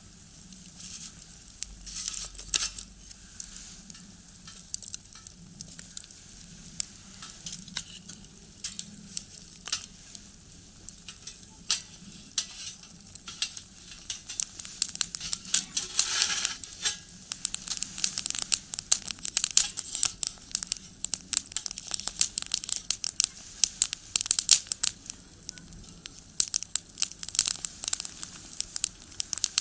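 Firewood crackling and popping in a small box stove: irregular sharp pops that come thicker and louder from about halfway through.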